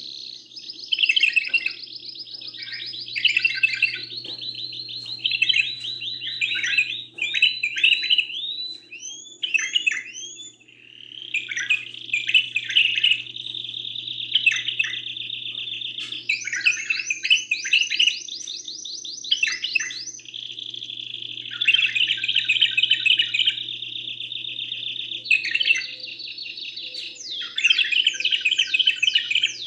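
Canary and bulbul song: long runs of rapid trills and rolling phrases with brief pauses, including a series of upward-curving repeated notes about a third of the way through. A faint steady low hum runs underneath.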